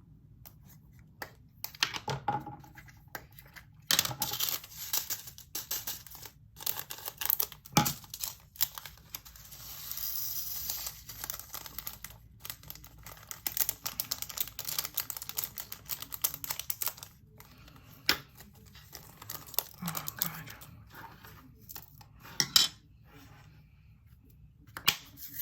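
Small plastic diamond-painting drills pouring and rattling into small plastic storage containers, with sharp clicks and plastic bags crinkling. A longer hissing pour comes about ten seconds in.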